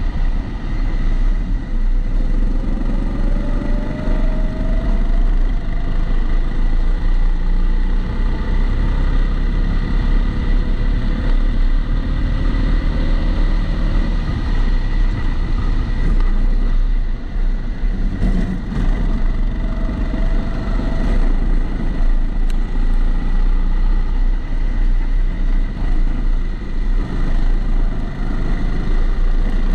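Kart engine running on a lap, its pitch rising as it accelerates, recorded onboard through a camera housing that dulls the sound. A steady high tone runs alongside it.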